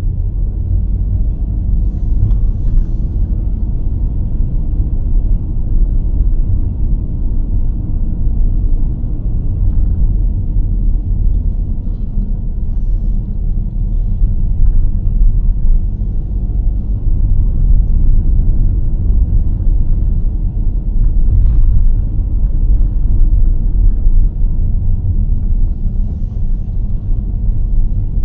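A car driving along a road: a steady, loud low rumble of engine, tyres and wind, with a few faint ticks.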